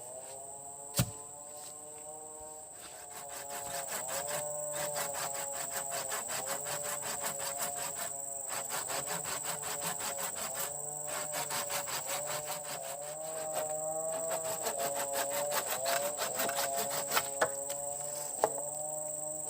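Steady high-pitched insect drone with slowly wavering sustained tones beneath it, and a rapid pulsing that starts about three seconds in. A few sharp wooden knocks come about a second in and again near the end.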